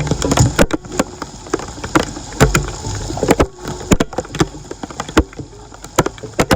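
Water splashing and sloshing, with many irregular sharp knocks and clicks, as when a clogged storm drain is being cleared in floodwater.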